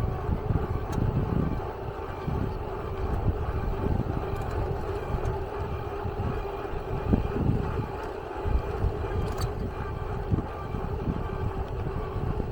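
Steady low rumble with wind buffeting, like a vehicle in motion, with a faint constant hum running through it.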